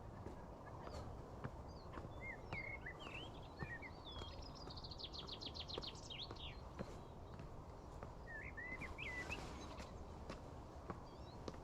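Wild birds calling: scattered short chirps and whistles, with a quick trill of about eight notes a second around the middle, over a steady low background rumble.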